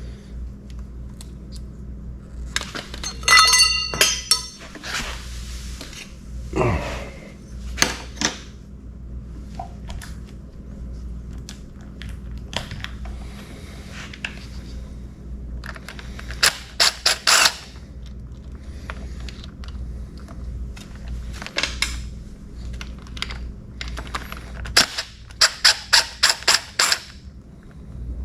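Hand tools working on an outboard motor: scattered metal clinks and knocks, a squeak a few seconds in, and quick runs of clicks around the middle and near the end, over a steady low hum.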